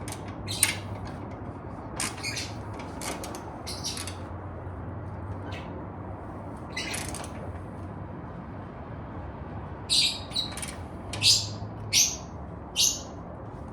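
Birds chirping in short, scattered calls, with a run of louder chirps near the end.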